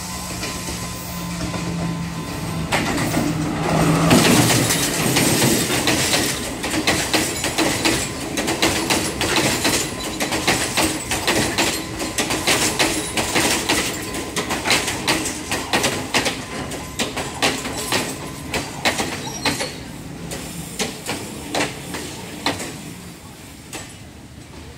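Sri Lanka Railways Class S12 diesel multiple unit approaching and passing close by. A steady engine drone builds over the first few seconds. Then comes a long run of rapid wheel clicks over the rail joints as the coaches go past, thinning out and fading near the end.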